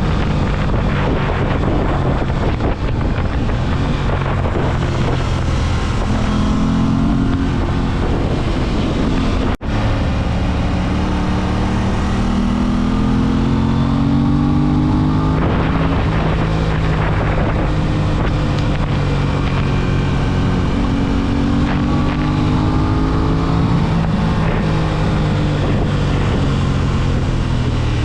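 Aprilia RS 660's parallel-twin engine pulling hard through the gears, its pitch climbing repeatedly and falling back at each shift, with wind buffeting the microphone. The sound breaks off for an instant about ten seconds in.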